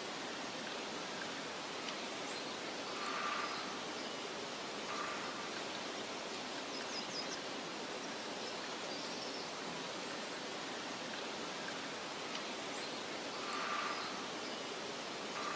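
Steady, soft wind-like rustling hiss of outdoor meadow ambience, with a few faint, short, high bird chirps and a couple of brief louder swells.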